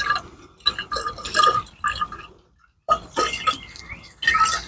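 Liquid glugging and gurgling in irregular bursts as it is poured into a narrow-mouthed container, with a short pause about two seconds in.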